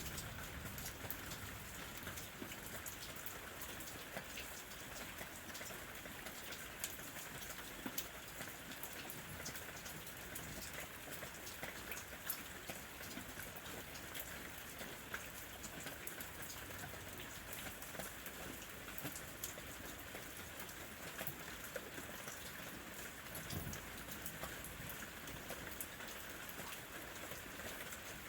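Steady rain falling, with many scattered drops ticking sharply against a continuous hiss.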